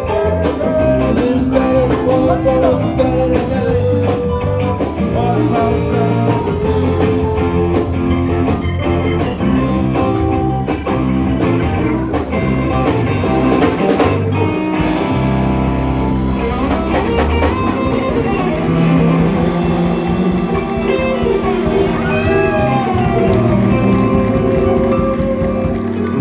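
Live rock band playing an instrumental jam: an electric guitar lead with bending notes over bass and drums.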